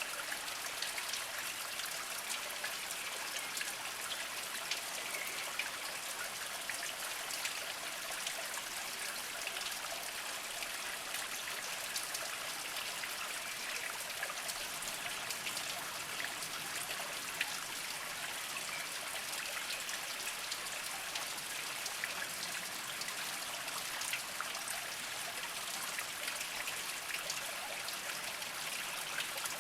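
Small spring trickling over mossy rocks: a steady hiss of flowing water, high in pitch, with many small drips and splashes.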